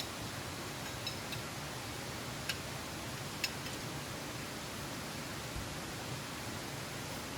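Wood fire crackling with a few sharp pops in the first three seconds or so, over a steady rushing hiss.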